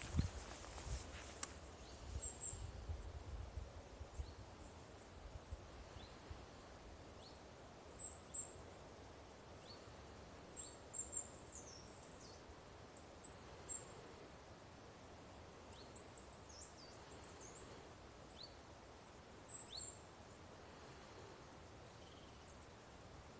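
Small birds singing, faint: thin, very high-pitched short phrases and chirps scattered throughout. A few low thumps and rumbling in the first couple of seconds.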